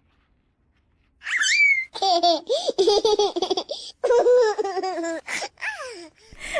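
High-pitched laughter from a baby or young child: a short squeal, then two long runs of quick, bubbling giggles, and a few shorter laughs near the end.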